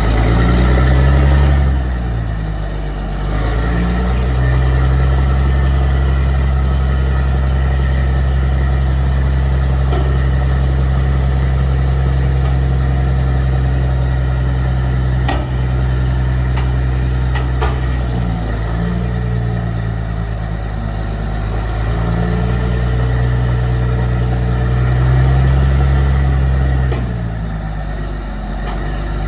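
A Caterpillar D400E Series II articulated dump truck's diesel engine running, mostly at a steady idle, with its pitch rising and falling three times as it is revved or worked.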